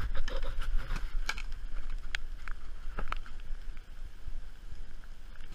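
Low wind rumble on the microphone, with a few scattered short clicks and knocks.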